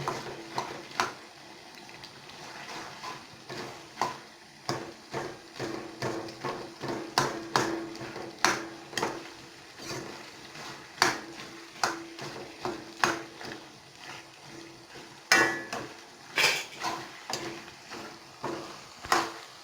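Kitchen utensils and dishes clinking and knocking irregularly, about one to two sharp strikes a second, over a faint steady hum.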